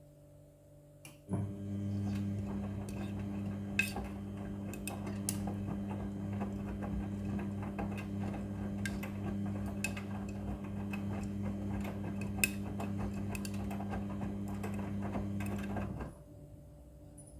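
Front-loading washing machine running: a steady low hum with light clicking and rattling over it, starting about a second in and cutting off abruptly near the end.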